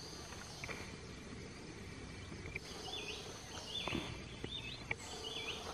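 Forest background: a steady hiss with a bird's short whistled calls, repeated roughly once a second from about three seconds in. There is a single faint knock about four seconds in.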